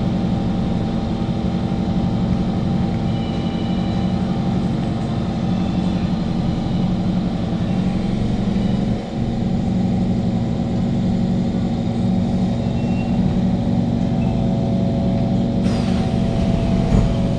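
Kawasaki Heavy Industries C151 MRT train (GTO-VVVF variant) running, heard from inside the carriage: a continuous rumble with a steady hum.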